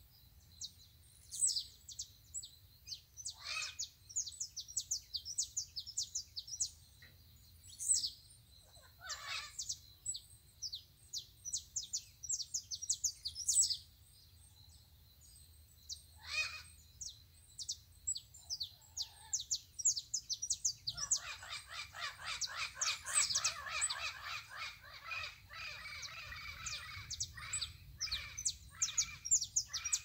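Birds chirping in rapid runs of short, high-pitched notes, with a few falling calls. About two-thirds of the way in there is a denser, buzzier stretch of chattering that lasts several seconds.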